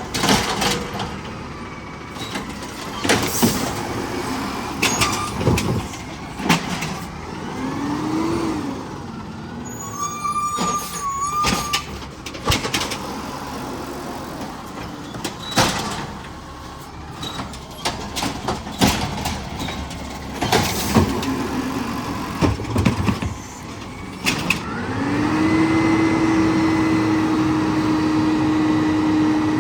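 Garbage truck at work: repeated sharp bangs and clanks, with a short wavering whine in the middle. Near the end a whine rises and then holds steady.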